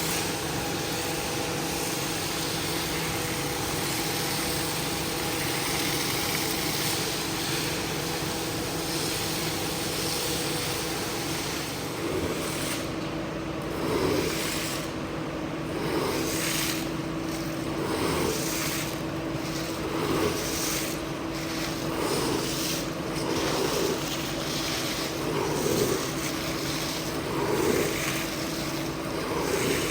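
Carpet-cleaning machine running steadily with a hiss and a constant hum. About halfway through, a regular surge sets in roughly every two seconds and repeats to the end.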